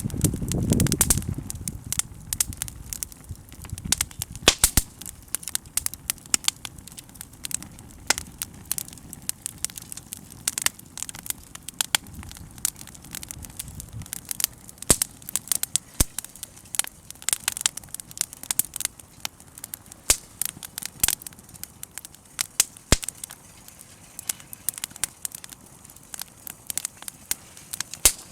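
Bonfire crackling, with sharp, irregular pops and snaps throughout and a low rumble in the first couple of seconds.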